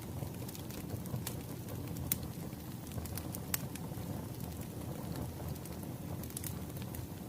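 Wood fire crackling: a steady low rumble of burning logs with scattered sharp pops and snaps every second or so.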